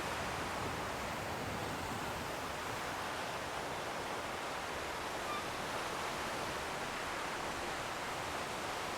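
Steady, even wash of distant sea surf.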